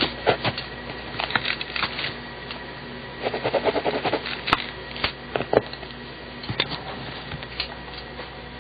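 BIC mechanical pencil with 0.7 mm lead writing on paper. The lead makes short, irregular scratching strokes with small taps, over a faint steady hum.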